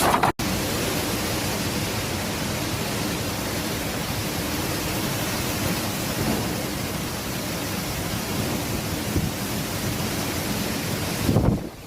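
Typhoon wind and heavy rain: a steady, loud rushing, broken by a brief dropout just after the start and swelling in a louder surge near the end.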